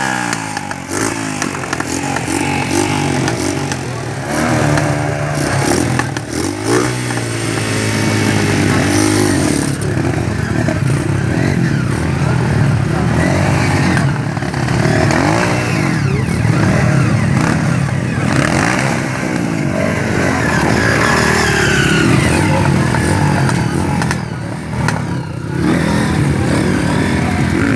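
Motocross bike engines running and revving hard, the pitch rising and falling over and over as the throttle is worked.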